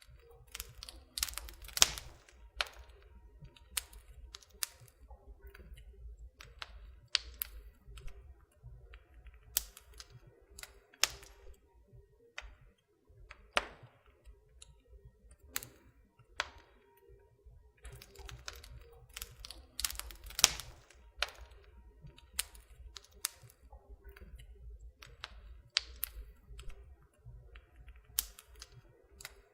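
Wood fire crackling in a fireplace: irregular snaps and pops, a few of them sharp and loud, over a low steady rumble.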